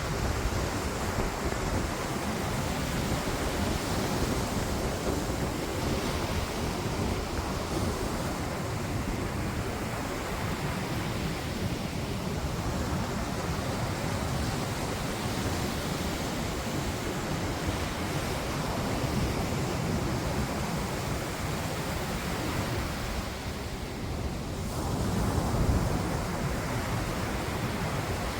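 Steady rushing wind noise buffeting the microphone, swelling briefly near the end.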